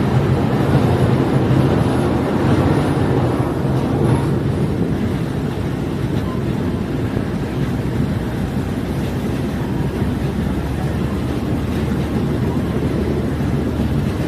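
Diesel multiple unit running along the track: a steady engine drone with a low hum under continuous wheel-and-rail noise.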